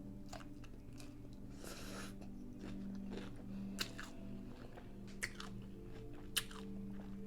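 Close-up chewing and crunching of a hard-shell chorizo taco, with a few sharp crunches about four, five and six and a half seconds in. Faint background music underneath.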